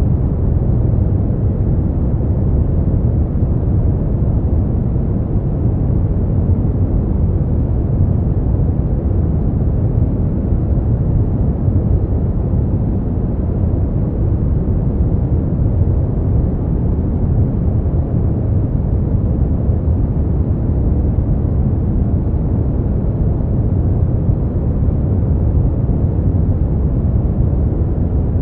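Steady, unchanging noise played for sleep, deep, with most of its energy low down and little above the upper midrange. It is closer to brown noise than to hissing white noise.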